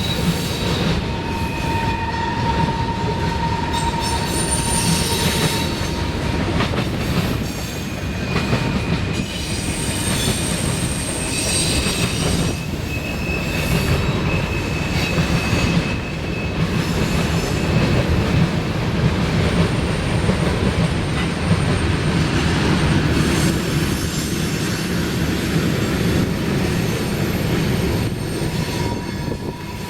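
Freight train cars rolling past with a steady rumble, their wheels squealing in drawn-out high tones that come and go.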